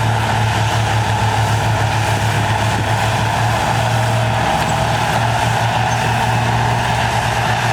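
Heavy earthmoving machine's diesel engine running steadily at constant speed, a deep hum with a higher whine above it.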